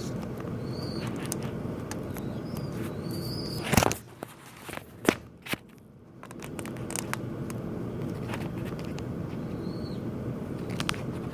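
Small birds at a window: short high chirps repeated about once a second, over a steady noise, with several sharp taps or knocks. The loudest knock comes about four seconds in, and the steady noise drops away for a couple of seconds after it.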